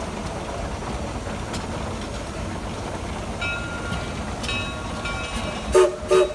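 A steady low mechanical rumble, then three short, loud horn toots in quick succession near the end.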